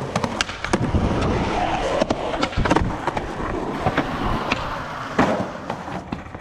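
Skateboard wheels rolling on concrete, with sharp clacks of the tail popping and the board hitting the ground, and a loud landing slap about five seconds in as the skater ollies up a block and drops down a stair set.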